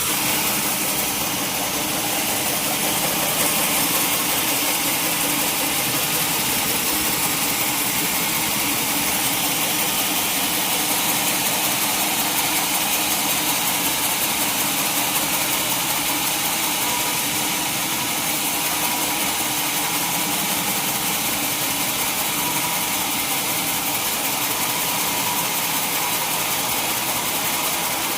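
Sawmill saw machinery running steadily, with a continuous high hiss.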